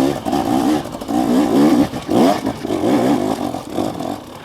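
KTM 250SX two-stroke dirt bike engine revved in repeated short bursts, its pitch rising and falling with the throttle under load on a steep climb, with one quick rising rev a little past the middle.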